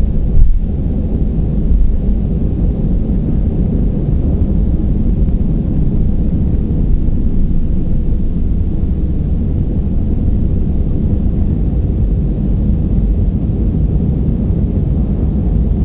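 Airbus A320 airliner taking off: a steady, loud, low rumble of the jet engines and the aircraft's roll, with a brief knock about half a second in.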